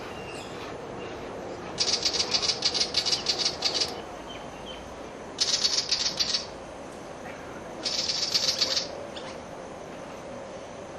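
Willie wagtail scolding: three bursts of rapid, harsh, rattling chatter, the first about two seconds long and the next two about a second each. It is the wagtail's agitated call at a butcherbird nearby.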